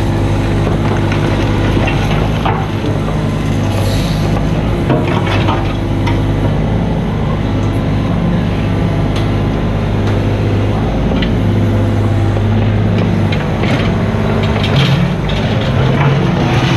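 Mini excavator's diesel engine running steadily, its pitch shifting as it works, with scattered knocks.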